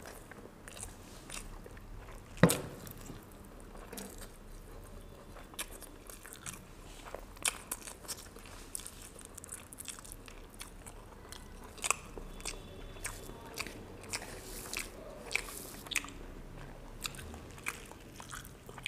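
Close-up mouth sounds of a person eating rice, vegetables and fried fish by hand: chewing with many small crunches, clicks and smacks, and one much louder sharp click about two and a half seconds in.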